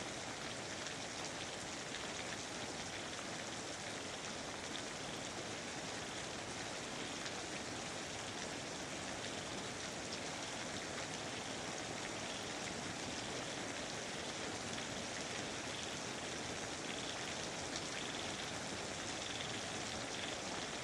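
Steady, heavy rainfall: an even, unbroken hiss of countless drops that holds at one level throughout.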